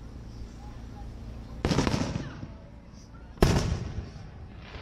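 Aerial firework shells bursting: two loud booms about a second and a half apart, each trailing off in a rolling echo, then a fainter boom near the end.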